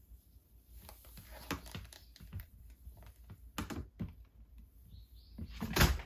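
Irregular light clicks and taps of small objects being handled, with a louder knock near the end.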